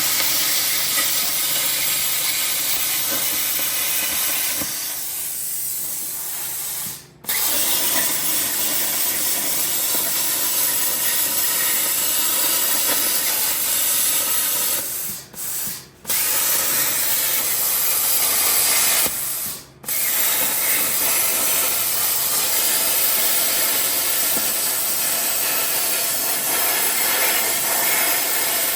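Plasma cutter cutting through rusted sheet-steel truck bed, a steady loud hiss of the air arc that cuts off abruptly and restarts a few times.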